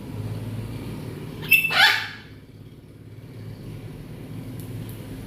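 A parrot gives one short, loud call about a second and a half in, over a steady low background hum.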